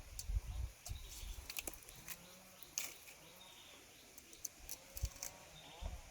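Faint bird chirps among scattered light clicks and a few soft knocks.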